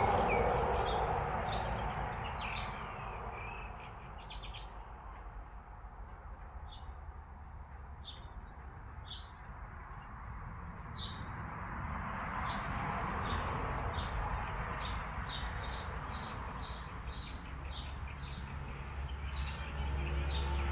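Small birds chirping and twittering in short calls and quick sweeps, which grow denser and more regular in the last few seconds. Under them runs a low rushing background noise that swells and fades twice.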